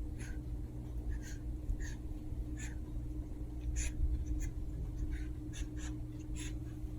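Chihuahua puppies playing: about a dozen short, irregular scratchy snuffles and scrabbling sounds over a steady low hum.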